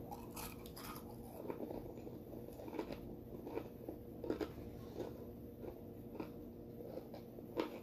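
Close-up chewing of a mouthful of tater tots, with irregular soft crunches and wet mouth smacks about once or twice a second.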